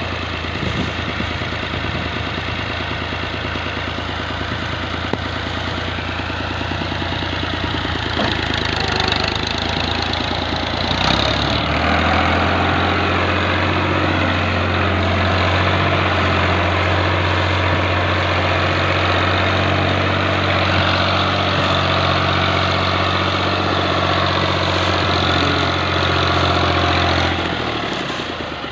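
New Holland Al-Ghazi tractor's diesel engine running steadily. About twelve seconds in its note rises and gets louder, then falls back just before the end.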